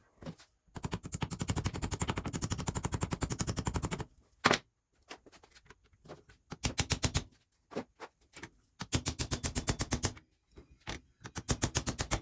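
Impact wrench hammering in rapid rattling bursts on bolts during work on a tractor's rear axle: one long burst of about three seconds, a single sharp knock, then three shorter bursts of about a second each.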